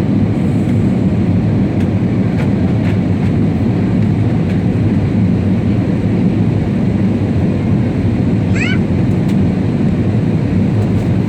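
Airliner cabin noise in flight: a steady, loud rush of engine and airflow noise, with a brief high chirp about two-thirds of the way through.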